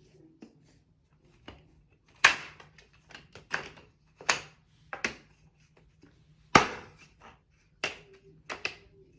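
A string of irregular taps and knocks, about a dozen, with the loudest two a little over two seconds in and about six and a half seconds in.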